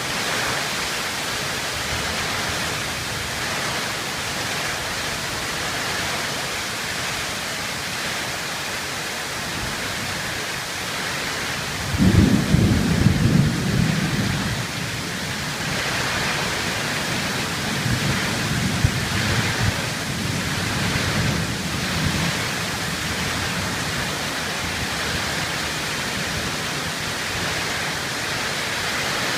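Heavy thunderstorm rain pouring steadily, with a sudden clap of thunder about twelve seconds in that rumbles on for a few seconds, then a weaker rumble of thunder a few seconds later.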